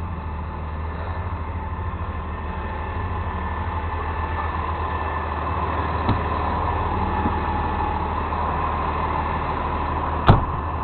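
Truck engine running with a steady low drone and road or cab noise that slowly grows louder, a small knock about six seconds in and a sharp loud click or clunk near the end.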